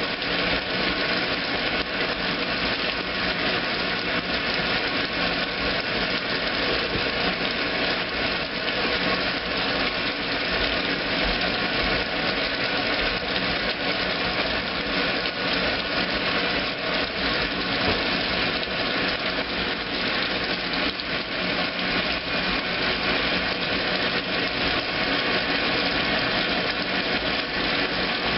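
2008 Kenmore washing machine running steadily through its heavy duty cycle, a continuous even mechanical whir.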